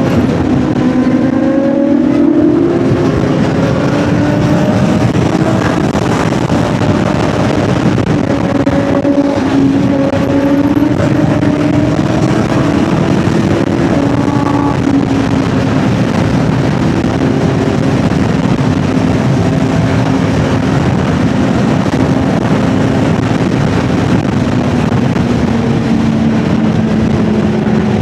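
Superbike engine running at a steady highway cruise under loud wind rush, its note easing slowly lower through the stretch.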